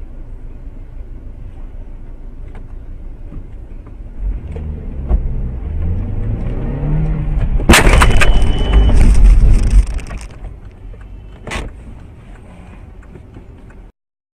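A car crash: a vehicle runs with road noise and its engine rises in pitch, then a loud sudden impact about eight seconds in turns into a couple of seconds of smashing and breaking. A further sharp bang follows a little later.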